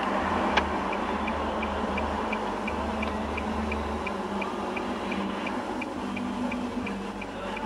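Car turn-signal indicator ticking steadily, about three ticks a second, over engine and road noise inside the cabin, after a single click as the stalk is set, signalling the left turn just announced by the navigation.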